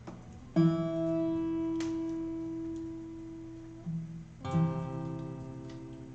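A guitar strummed between sung lines: one chord about half a second in that rings and slowly fades, a light touch near four seconds, then a second chord a little after four and a half seconds that also rings on.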